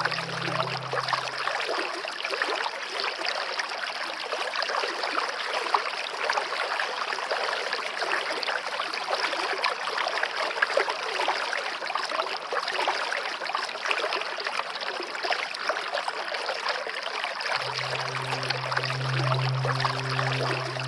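Stream water running and trickling steadily. Soft music with low held tones fades out in the first two seconds and comes back in the last three.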